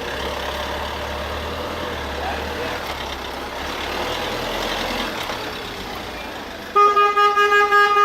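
Street traffic with a vehicle engine running, then, nearly seven seconds in, a horn sounds loudly in a quick string of short honks, about four or five a second.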